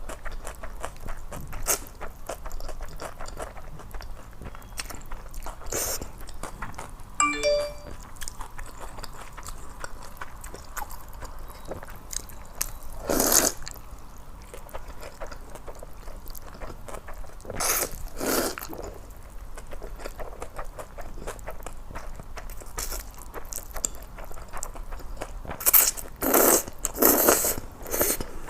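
Close-miked eating: steady wet chewing clicks, with several louder, longer mouth noises, the loudest group near the end. About a quarter of the way in there is a brief chime-like ding.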